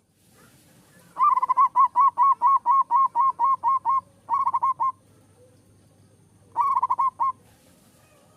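Zebra dove (perkutut) singing: a fast run of about a dozen short repeated notes, then a quicker burst of notes, and after a pause another quick burst.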